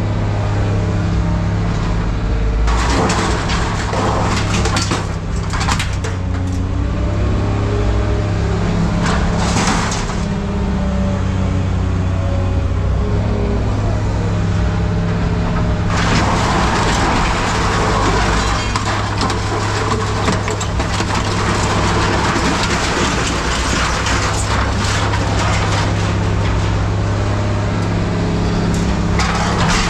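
Heavy diesel machinery used for handling scrap, running steadily, with stretches of grinding and clattering scrap metal. The metal noise comes briefly twice early on and runs on continuously from about halfway through.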